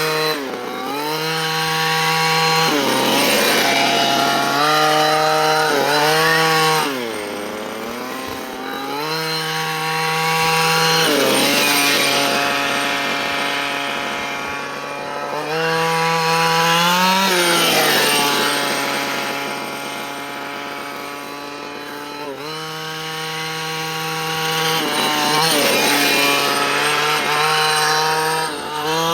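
Dynamite CY23cc two-stroke gas engine of a 1/5-scale RC buggy being run in during engine break-in: it holds steady at high revs for a few seconds, then the revs sag and climb back again, several times over.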